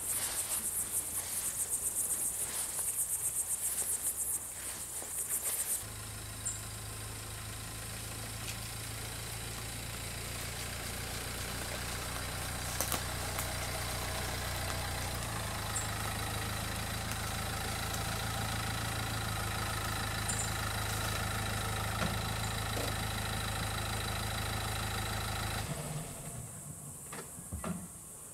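Dacia Duster SUV's engine running at low speed as the car creeps forward and parks, then switched off about two seconds before the end. For the first six seconds, before the engine is heard, meadow insects chirr in rapid high pulses.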